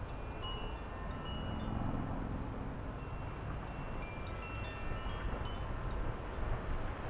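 Wind chimes ringing, scattered clear tones at several pitches sounding on and off, over a steady background rush of wind.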